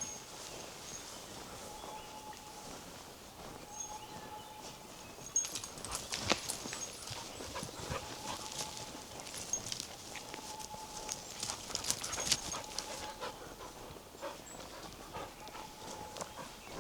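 Footsteps crunching on a forest path, strongest from about five seconds in to near the end, under birdsong. A bird repeats a short, steady whistled note every couple of seconds, and brief high calls come now and then.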